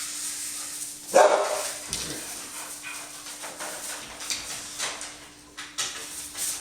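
Norwegian Elkhounds barking: one loud bark about a second in, then scattered shorter barks, over a steady low hum.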